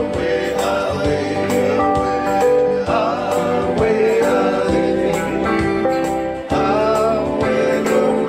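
Samoan song performed live: singing over instrumental accompaniment with a steady beat.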